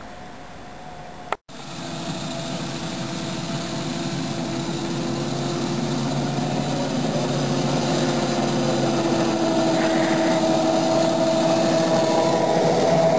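Small ride-on backyard railroad locomotive running with a steady engine hum, growing steadily louder as it approaches. There is a sudden cut to silence about a second and a half in.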